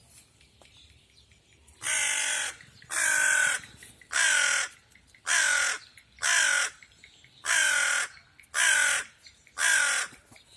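A crow cawing loudly and repeatedly: about eight harsh caws, roughly one a second, starting about two seconds in.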